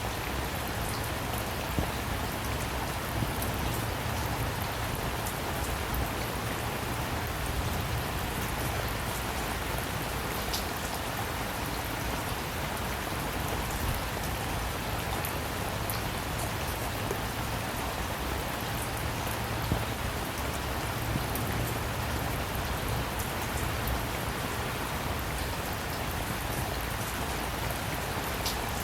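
Steady rain falling on a surface: an even wash of rain with single drops ticking sharply now and then.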